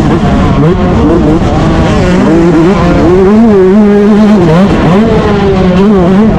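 Yamaha YZ125 two-stroke motocross engine running hard and loud, its revs dropping and climbing again several times as the throttle is worked.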